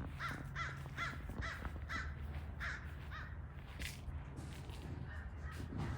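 A bird calling outdoors in a run of short repeated calls, about three a second through the first half, then a few scattered calls later, over a low steady hum.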